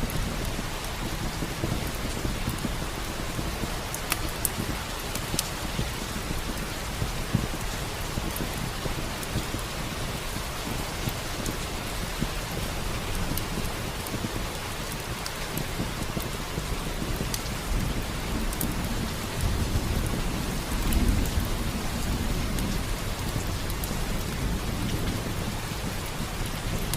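Steady rain with low rolling thunder that swells about twenty seconds in, over scattered sharp crackles of a wood fire.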